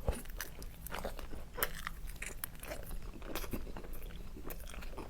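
A person biting and chewing crunchy food close to the microphone, with irregular crunches and wet mouth sounds.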